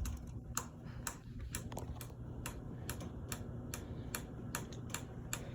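Hunter Summer Breeze ceiling fan running on high with a steady low motor hum and a regular tick, about three a second, of something hitting something as it turns. The fan wobbles, and the owner suspects shot bearings or a blade out of true.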